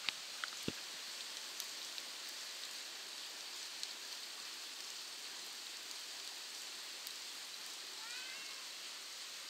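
Steady rain falling, a continuous hiss with scattered drop ticks and a few sharper clicks in the first second. A faint cat meow comes about eight seconds in.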